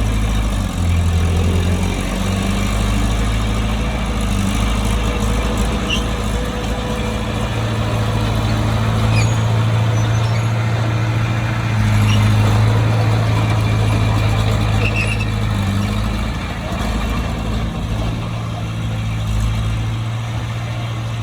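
Bulldozer's diesel engine running steadily with a low drone that shifts slightly in pitch a few times, with a few faint short squeaks.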